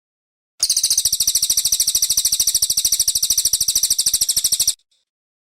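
A brown cililin songbird singing one long, fast, even trill, high-pitched, a dozen or more notes a second, lasting about four seconds and starting and stopping abruptly.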